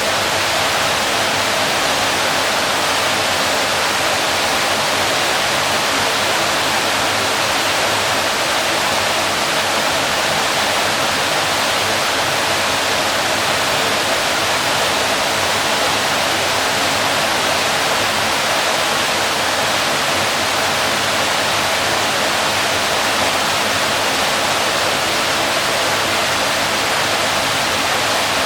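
Waterfall: water falling and splashing in a steady, unbroken rush, strongest in the middle and high range.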